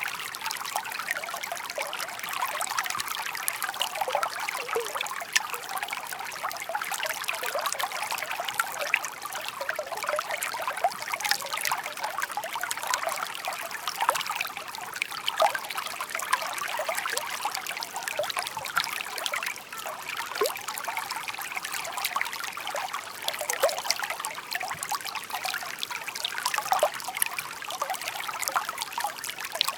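Shallow babbling stream, water trickling and splashing steadily over stones with many small bright plops and gurgles.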